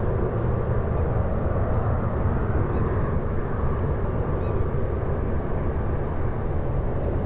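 Jet airliner engines making a steady, low rumble.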